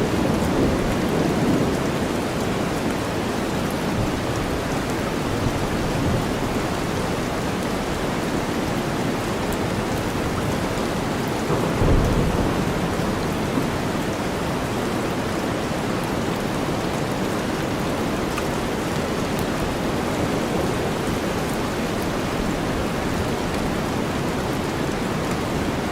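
Steady rainstorm under a deep, even white-noise bed, with low rolls of thunder: one near the start and a stronger one about halfway through.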